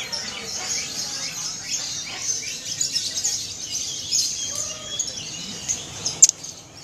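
Many songbirds chirping and trilling at once in a dense, overlapping chorus, with one sharp click near the end.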